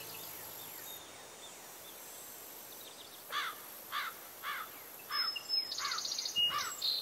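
A small bird calling repeatedly outdoors, short sharp chirps about twice a second, with a second bird's rapid high trill joining near the end. Background music fades out in the first second.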